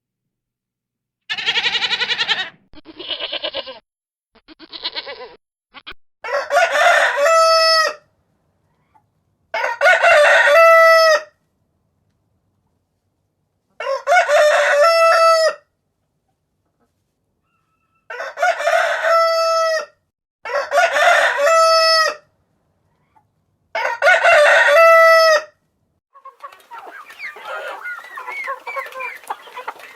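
A rooster crowing six times, each cock-a-doodle-doo ending on a held note, after three shorter calls at the start. Near the end, chickens cluck continuously.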